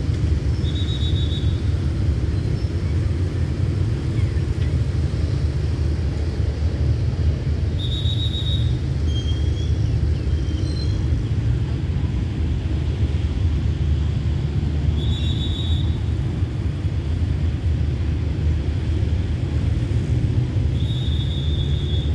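Passenger coaches of a diesel-hauled train rolling slowly past, a steady low rumble. Short high squeaks come roughly every seven seconds.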